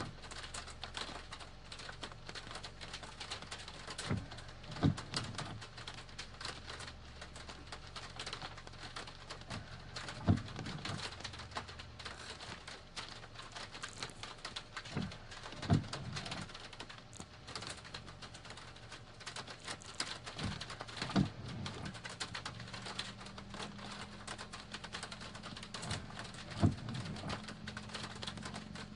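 Rain falling steadily, a dense patter of drops, with a short low thump roughly every five to six seconds.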